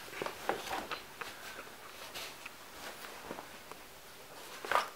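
Faint scattered clicks and rustles of something being handled, with a slightly louder rustle near the end.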